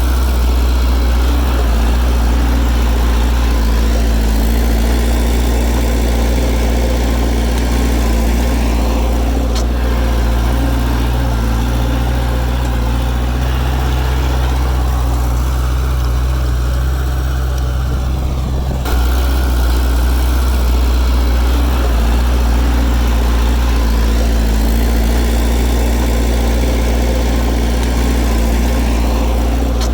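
Heavy diesel engine of earthmoving machinery running steadily, with a deep, even drone. The sound changes abruptly about two-thirds of the way through, then carries on the same.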